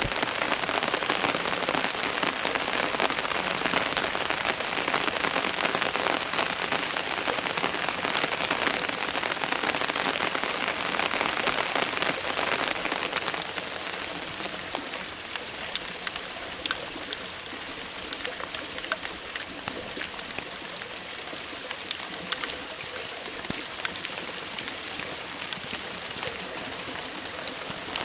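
Steady rain falling, with many separate drops ticking through it; it grows a little quieter about halfway through.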